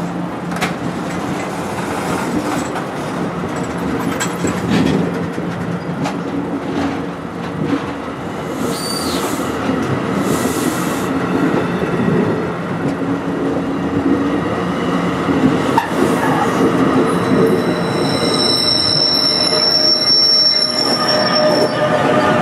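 NJ Transit commuter train moving through the station, a steady rumble of wheels on rail that grows louder throughout. High-pitched wheel squeal comes in near the end.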